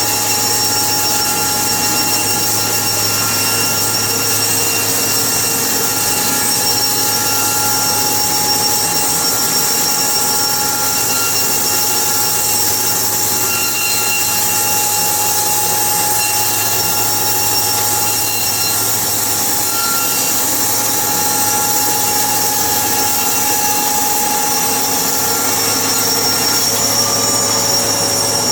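Machinery running steadily at an even level, a continuous hiss with several high, unchanging whining tones.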